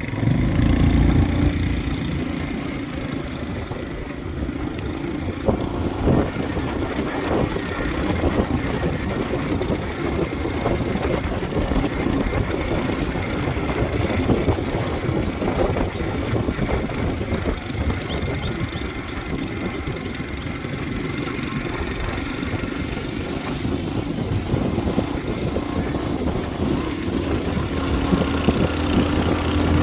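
Motorbike engine running during a ride, under a steady rumble of wind and road noise. The engine's hum stands out most near the start and again near the end.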